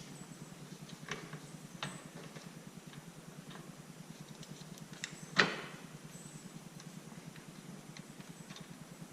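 A few scattered sharp knocks and clicks, the loudest about five and a half seconds in, over a steady fast low pulsing.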